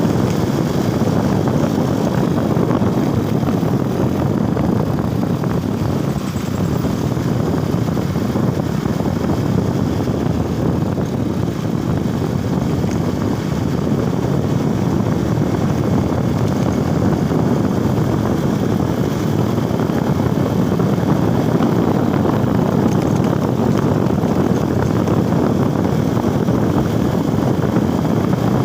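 Motorcycle underway: steady engine drone mixed with the rush of riding wind.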